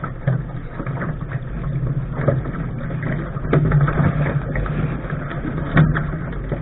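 Steady rushing noise of a Lark sailing dinghy under way, with wind on the microphone and water along the hull, and a few sharp knocks.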